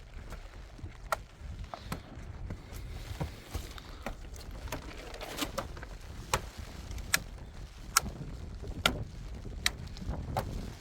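A series of sharp knocks or strikes, a few scattered at first and then coming regularly about once every second in the second half, over a low steady rumble.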